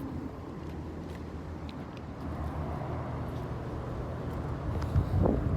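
BMW 740's engine idling quietly and steadily, with a couple of thumps near the end.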